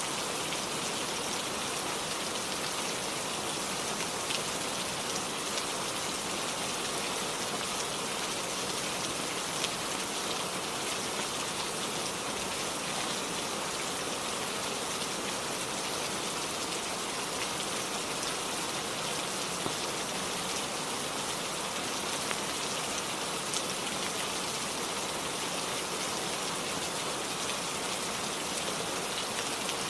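Steady rainfall, an even wash of drops with a few faint ticks scattered through it.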